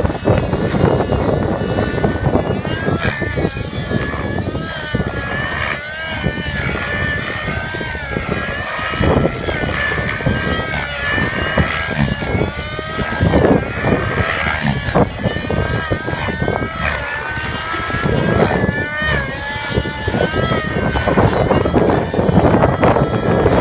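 600-size nitro RC helicopter in flight, its glow engine and rotor pitch rising and falling again and again as it manoeuvres, over a low rumble of wind on the microphone.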